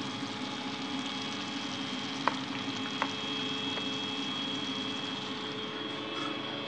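Egg-coated chicken pieces deep-frying in hot oil: a steady sizzle, with a couple of sharp oil pops about two and three seconds in.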